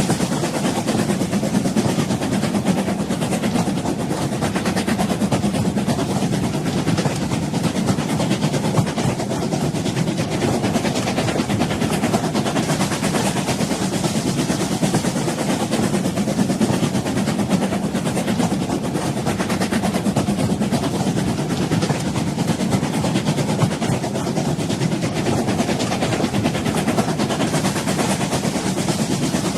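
Old train running steadily: a constant low rumble with fine rattling that does not change.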